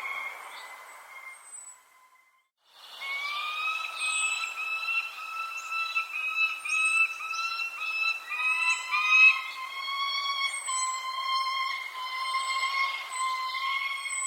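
Small birds chirping in short, high, falling notes over a steady whistle-like tone that holds one pitch. The tone shifts slightly about eight seconds in. The sound drops out briefly for under a second near the start.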